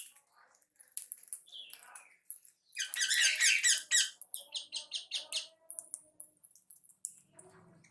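Caged pet birds chirping and squeaking. About three seconds in comes a loud run of rapid, shrill repeated calls, followed by a string of shorter chirps.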